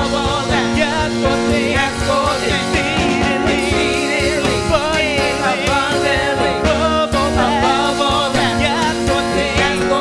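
A church praise team singing a gospel praise chorus with band accompaniment, with held chords under the voices and a steady beat.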